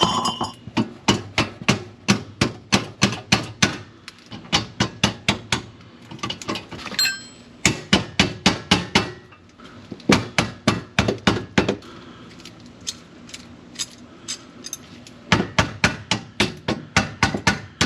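Hammer tapping on metal exhaust parts: quick runs of about four blows a second, with short pauses between runs.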